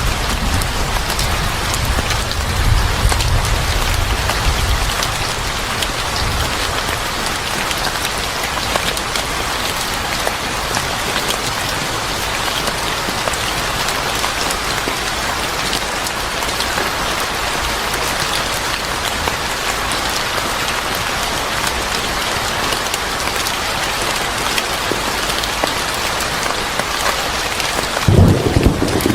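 Steady heavy rain falling, with a low rumble of thunder fading away over the first few seconds and another rumble of thunder starting near the end.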